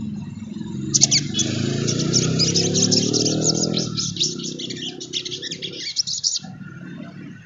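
Sunbird (sogon) singing a fast, dense chattering twitter of high chirps that starts about a second in and stops near the end. A lower droning sound runs underneath through the first half.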